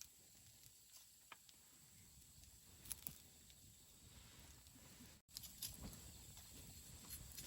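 Wood campfire burning quietly: a soft hiss with a few sparse crackles and pops. The sound drops out for an instant about five seconds in.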